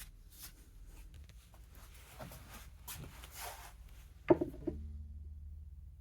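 Soft handling noises, rustling and scraping, then a sharp knock about four seconds in and a lighter one just after it.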